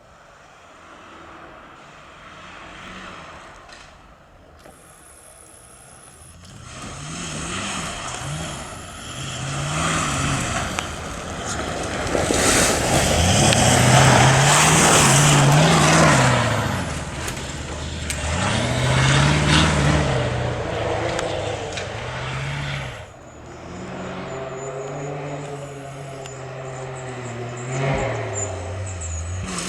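Rally-raid competition vehicle's engine on a special stage: it builds from faint to loud as the vehicle approaches, the revs repeatedly climbing and dropping with gear changes, loudest about halfway through with a rush of tyre and spray noise, then falls away as it moves off.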